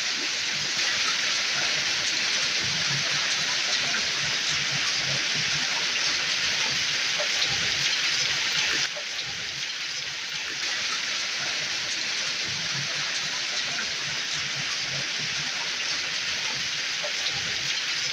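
Hail and rain pelting down in a dense, steady hiss scattered with small ticks of impacts. The sound drops a little about nine seconds in and comes back a second or two later.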